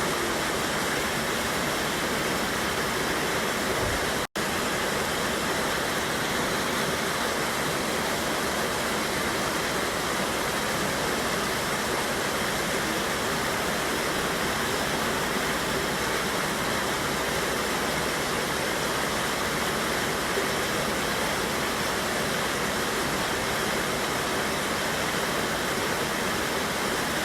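Steady rush of water from a mountain river cascade, a continuous even roar, cut out for an instant about four seconds in.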